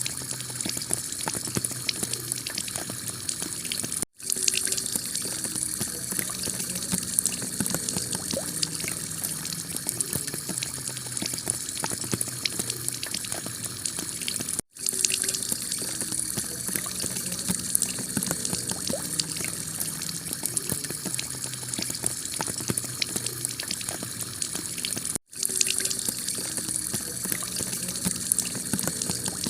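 Heavy rain pelting a clay-tile roof: a steady hiss dotted with countless separate drop hits. It cuts out for an instant three times, about ten seconds apart.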